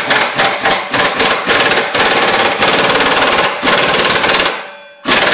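Impact wrench hammering on a bolt during an engine removal. It fires in short bursts at first, then runs in long stretches of rapid hammering, stops, and fires once more near the end.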